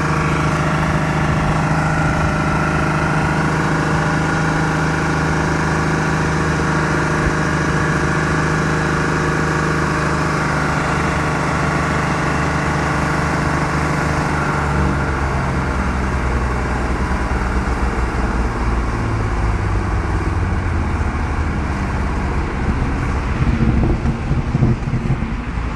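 Diesel truck engine in runaway, running at a high, steady speed; about halfway through its speed drops and it settles into a lower, rougher run.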